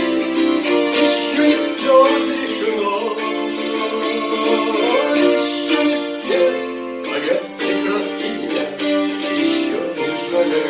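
Wing-shaped 11-string gusli played in an instrumental passage: a quick run of plucked notes, each ringing on beneath the next.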